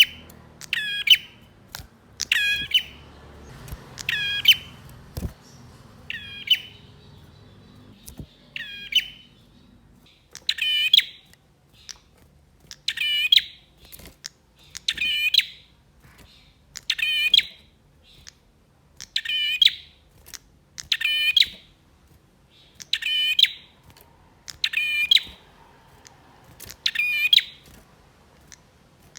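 Male prinia singing: a short, sharp, high phrase of rapid repeated notes, given again about every two seconds.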